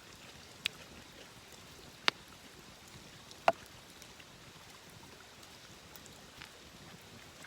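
Wood fire crackling: three sharp, separate pops over a steady soft hiss.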